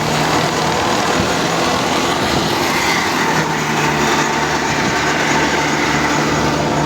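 Al-Ghazi tractor engine running steadily with a threshing machine, a constant mechanical hum and clatter.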